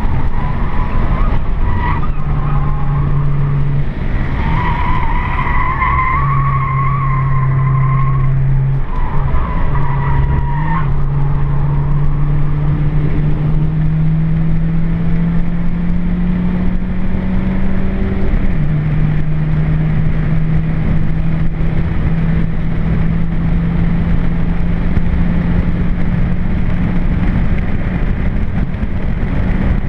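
Nissan Micra K11's engine heard from inside the cabin under hard driving, a steady drone that climbs in pitch through a long pull and drops at a gear change about two-thirds of the way through. In the first third, tyres squeal through a corner over the road and wind noise.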